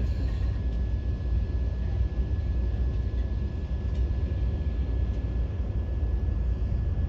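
Vande Bharat Express electric train running, heard from inside the coach: a steady low rumble with a thin, steady high whine over it.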